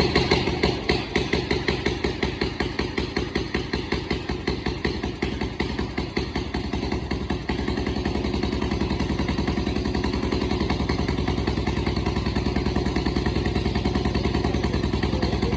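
Vintage engine running with an even beat of separate firing strokes; the beat quickens about seven seconds in. It had sat unused for a month and a half and started first try.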